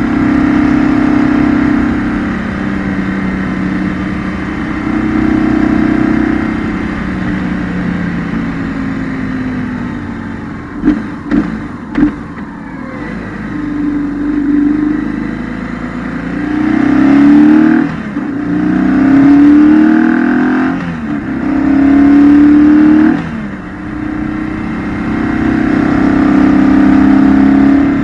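A 2008 BMW R1200GS's boxer twin heard onboard, running and revving up and down with the throttle. A little before the middle come three sharp clacks close together. Later the revs climb in three strong rising pulls, each cut off suddenly.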